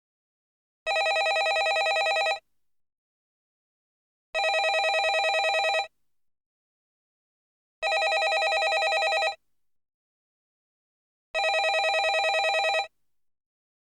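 Landline telephone ringing: four rings, each about a second and a half of fast trilling, with about two seconds of silence between them.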